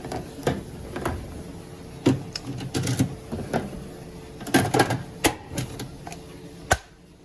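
Irregular clicks and knocks of a washing machine's lint filter being handled.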